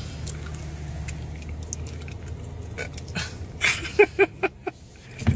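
A car engine idling with a steady low hum, heard from inside the cabin. About four seconds in comes a quick run of four short vocal bursts, like a chuckle.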